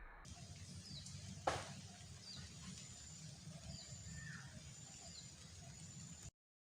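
Outdoor ambience: small birds giving short, falling chirps several times over a low steady rumble, with a faint high whine that comes and goes. One sharp crack stands out about a second and a half in.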